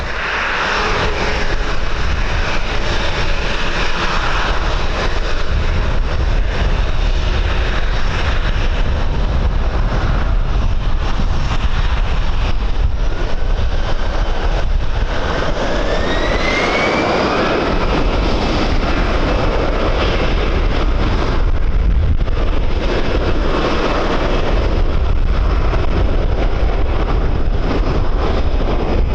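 Airliner engines running over heavy wind buffeting on the microphone, with a thin rising whine about halfway through.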